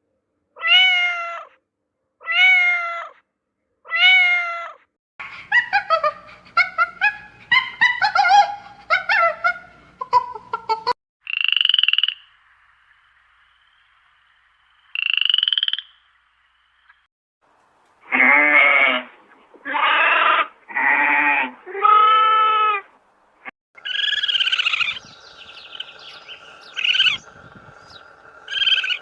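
Calls of several different animals, one kind after another: first a run of five evenly spaced calls, then a jumbled chorus, two short high calls, a set of four pulsing calls and a final stretch of calls over a steady hum.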